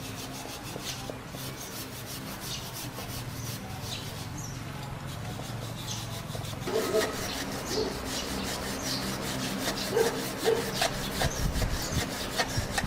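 Rapid repeated rubbing strokes of an abrasive or rasp worked back and forth over a surface by hand, with a low steady hum underneath. The strokes get louder and harsher about halfway through.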